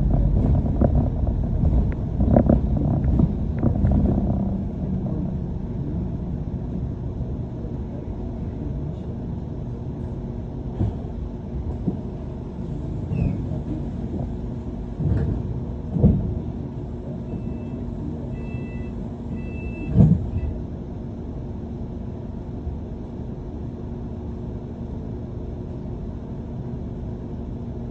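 London double-decker bus running on a route, a steady rumble and drive hum, a bit louder in the first few seconds. A few knocks from the ride come through, and a short series of high beeps sounds about two-thirds of the way in.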